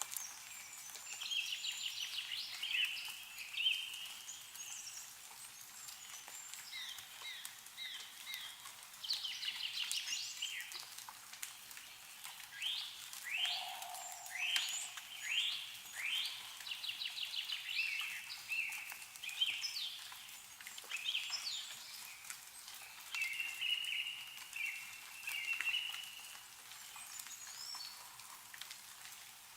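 Small songbirds singing and calling outdoors, a steady stream of quick falling whistled notes, chirps and trills.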